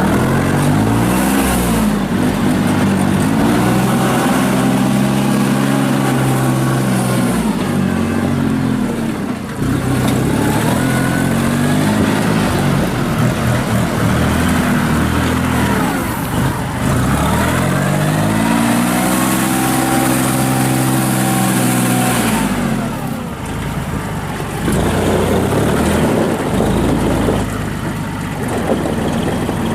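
2007 Kubota L39 tractor's diesel engine revving up and holding at high speed, dropping back, then revving up again about halfway through and falling back to a lower speed near the end.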